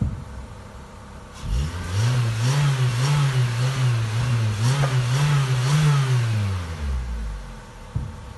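Suzuki SX4 engine idling, then revved from about a second and a half in: its pitch rises and swells up and down twice before dropping back to idle near the end. A short knock sounds at the start and another just before the end.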